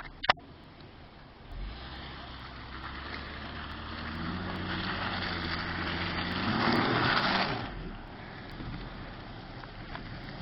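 Acura MDX 3.7 V6 engine revving up under load with a slowly rising pitch and rising tyre and road noise, then easing off about eight seconds in. There is a sharp click just after the start.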